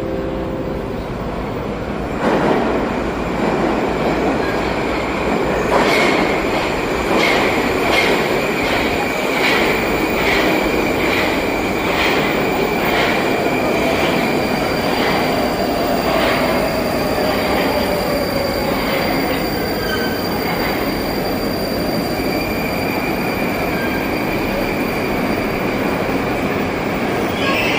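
Moscow metro train rolling along the platform and slowing, its wheels clicking over rail joints at a slowing rhythm, with a high wheel squeal and a motor whine that falls in pitch as it brakes.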